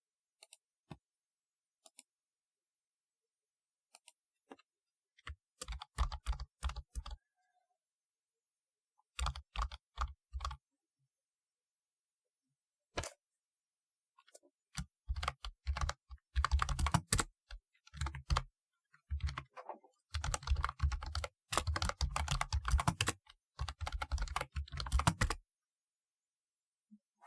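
Typing on a typewriter-style keyboard, its keys clacking. It starts with a few scattered keystrokes and short bursts, then runs into fast, continuous typing in the second half, which stops about two seconds before the end.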